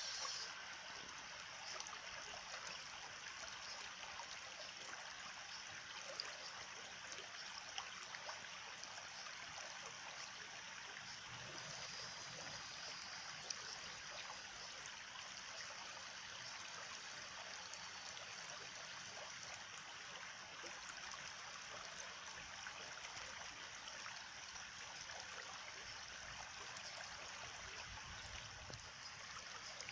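Stream water running steadily, with a few faint ticks.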